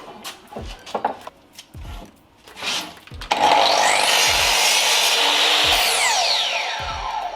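A few knocks and clicks from handling wood, then about three seconds in a power saw starts up and runs loudly, cutting a hardwood bench slat to length. Its motor pitch winds down near the end.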